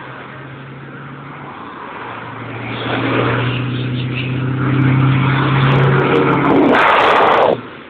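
Truck diesel engine running and growing louder as it pulls away, with a loud rushing burst near the end that cuts off suddenly.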